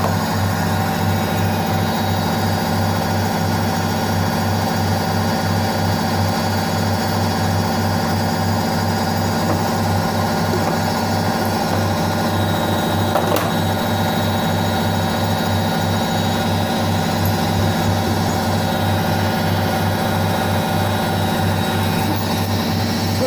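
Indesit IWSC5085 front-loading washing machine running: a steady motor hum with a regular low pulsing from the turning drum. A single click about thirteen seconds in.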